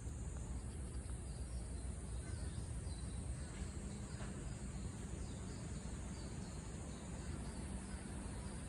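A steady, high-pitched insect chorus over a low rumble, with a few faint short chirps in the middle.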